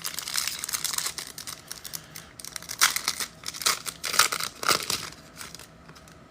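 A trading-card pack wrapper being torn open and crinkled by hand, with the loudest rips and crackles in the middle, dying down near the end.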